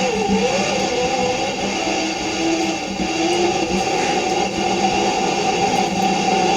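Wet/dry shop vacuum running steadily, sucking on a clogged air-conditioner condensate drain line.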